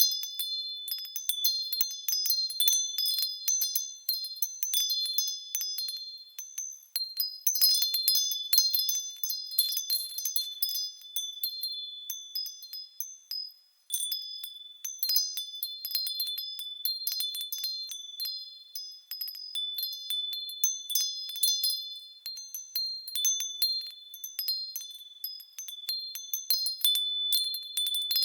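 Japanese fūrin wind chime ringing in the wind. The clapper strikes irregularly and many times, leaving high, clear tones ringing on. There is a short lull about 13 seconds in, then it picks up again.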